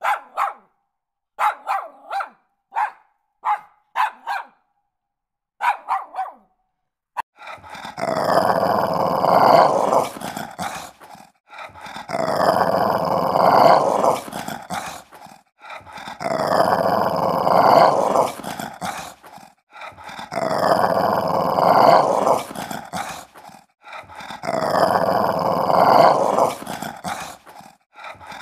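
A dog barking in short, separate barks for the first few seconds, then growling in long growls of about three seconds each, repeated about every four seconds.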